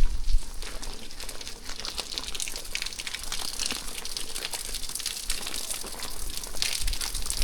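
Rain falling: a dense, steady patter of many small drops, with a few low thumps right at the start.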